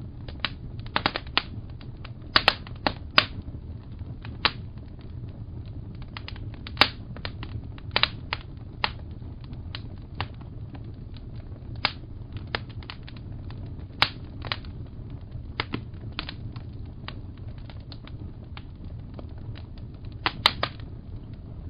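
Wood fire crackling: irregular sharp pops and snaps, some in quick clusters, over a steady low rumble.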